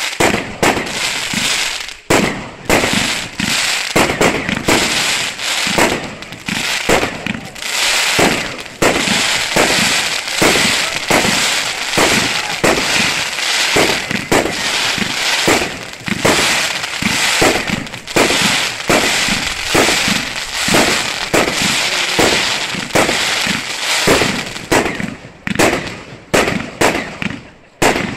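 Small consumer fireworks going off in quick succession, a little more than one report a second, each burst followed by crackling stars. The shots thin out near the end.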